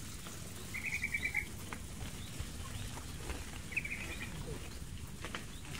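A bird gives a short, rapid trill twice, about a second in and again near four seconds, over a steady low rumble with a few faint clicks as bicycles roll along a dirt path.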